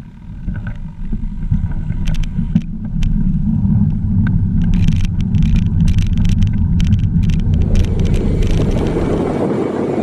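Steady low rumble of wind and road noise while riding, with scattered crackles; about eight seconds in it turns into a hissier rushing noise.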